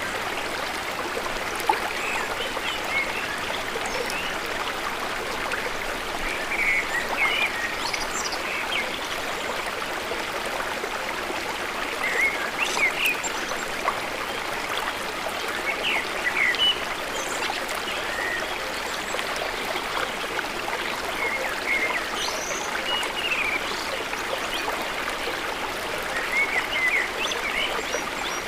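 Flowing water running steadily, with short bird chirps scattered over it.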